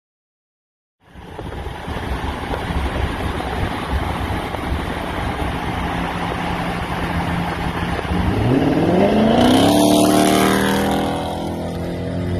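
Car engine running with a steady rumble, then revving up with a rising pitch about eight seconds in, held high briefly before easing off.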